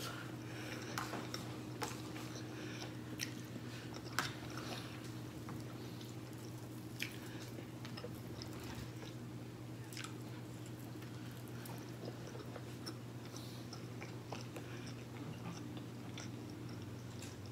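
Chewing and mouth sounds of someone eating smothered pork chop with rice and vegetables, with scattered small clicks and taps, over a steady low hum.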